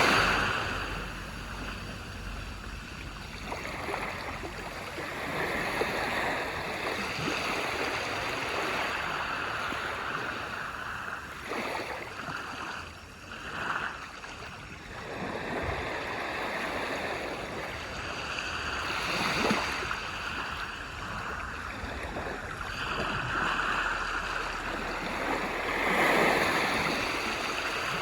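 Sea waves breaking and washing up on a beach, the surf swelling and ebbing every few seconds, loudest about 19 and 26 seconds in.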